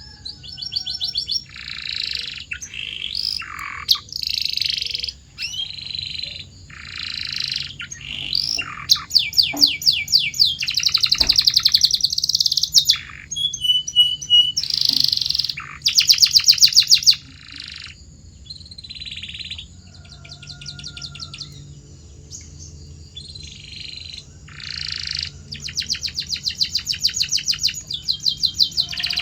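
Domestic canary singing a long, varied song of short phrases and whistles, broken by stretches of fast rolling trills, the loudest around the middle.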